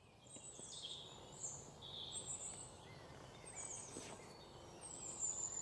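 Faint outdoor ambience with birds chirping: a series of high calls, several falling in pitch, over a low steady hiss.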